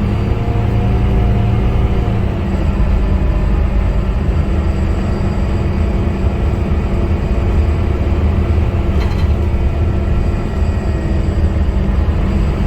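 Scania K250UB bus's five-cylinder diesel engine running steadily under way, with a constant low rumble and steady whining tones. A brief rattle comes about nine seconds in.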